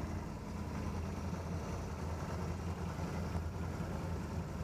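ATV engine idling steadily at low throttle.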